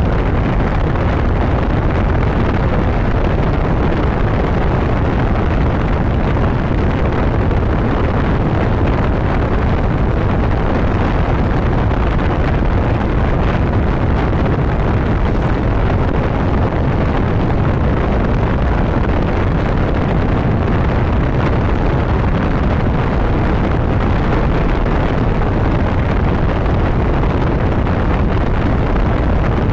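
Steady wind rush buffeting the microphone of a motorcycle ridden at road speed, mixed with the motorcycle's running and road noise, heaviest in the low end and without letup.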